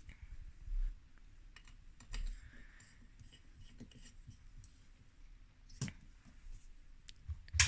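Scattered small clicks and light knocks from handling an electric fireplace and its lamp fitting, the sharpest click near the end.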